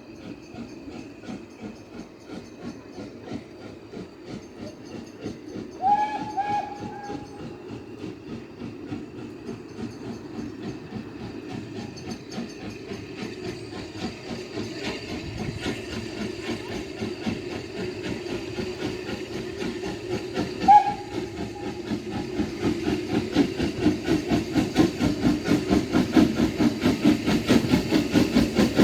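Steam locomotive working, its exhaust beats growing steadily louder as it approaches. Its whistle sounds briefly about six seconds in and again, shorter, around twenty seconds in.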